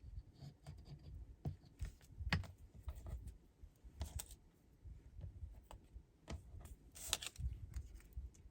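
Paper strips being handled and pressed onto a card: scattered light taps, rustles and clicks, with a sharper click about 7 seconds in.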